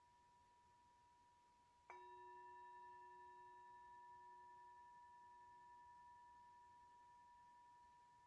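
A singing bowl struck once about two seconds in, ringing with a steady, slowly fading tone of several overtones over the soft lingering ring of the previous strike.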